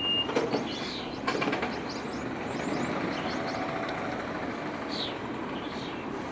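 Small birds chirping in quick repeated calls over a steady background hum of outdoor ambience, with two sharp clicks in the first second and a half.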